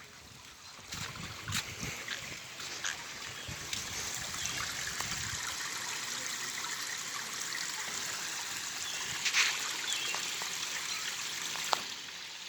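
Water running and trickling steadily, building up over the first few seconds, with a few light clicks near the end.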